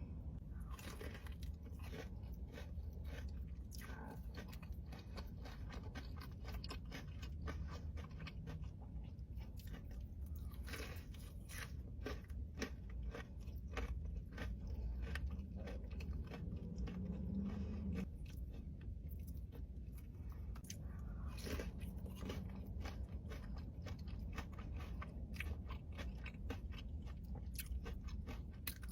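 Close-miked chewing: crisp food being bitten and crunched in the mouth, with dense, irregular crackles throughout over a steady low hum.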